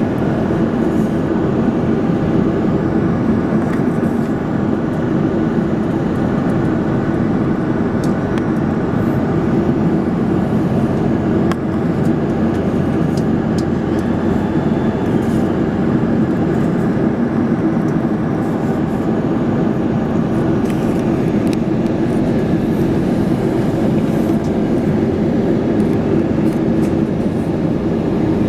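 Airbus A330-300 cabin noise in flight: a steady roar of the engines and airflow.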